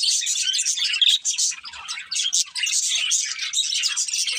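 A pair of budgerigars chirping and chattering rapidly and continuously, with a short lull about two seconds in.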